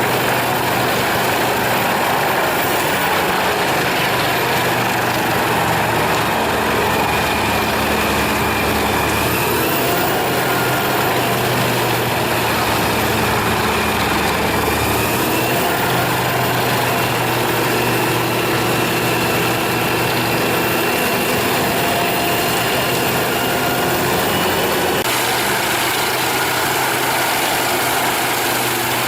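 Engine-driven wood chipper running steadily, a constant engine note under dense mechanical noise. The sound changes abruptly a few times, as from one machine to another.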